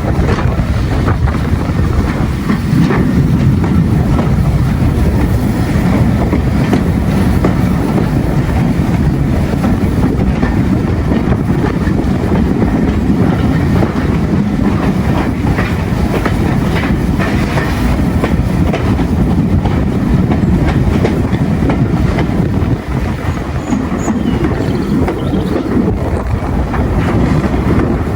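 Steam-hauled train hauled by LMS Stanier Class 8F 48305 running along the line: a steady loud rumble of wheels on rail with clickety-clack over the rail joints.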